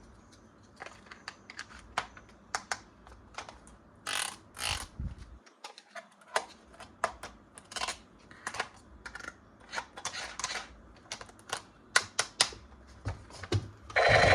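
Irregular small plastic clicks and taps with a few short rustles, the sound of hands handling toys and their packaging during an unboxing.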